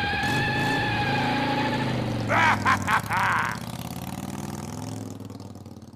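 Recorded motorcycle engine revving sound effect from an animatronic Grim Reaper motorcycle prop, played through its small built-in speaker, fading out near the end.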